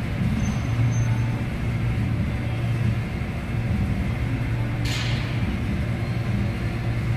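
The 2011 Chevrolet Cruze's engine giving a steady low mechanical drone, with a short hiss about five seconds in.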